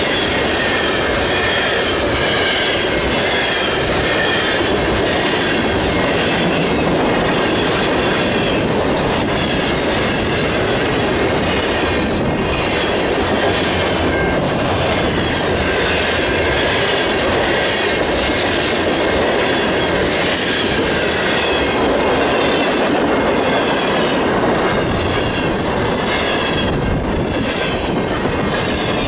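A freight train rolling past at close range: cars rumbling by, wheels clicking over rail joints in a steady rhythm, with some high wheel squeal.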